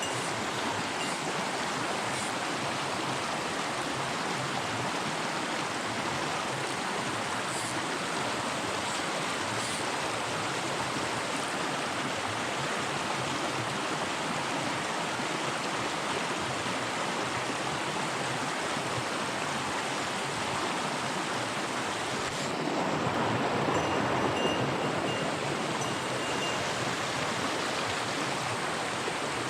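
Mountain stream rushing over rocks: a steady wash of running water that grows briefly louder about three-quarters of the way through.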